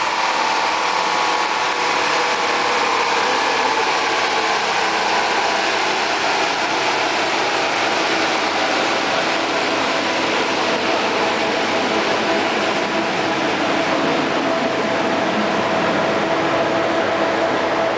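Nissan Z33's 3.5-litre V6 running at a steady, even pitch through a Fujitsubo titanium exhaust during a dyno power check, with a loud constant rush of noise throughout.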